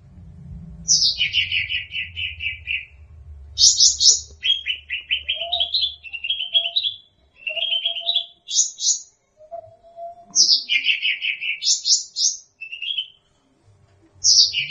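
Cucak rante songbird singing in quick bursts of rapid trilled notes, high phrases dropping into lower chattering runs, with short pauses between phrases. Softer lower whistled notes sound in the middle.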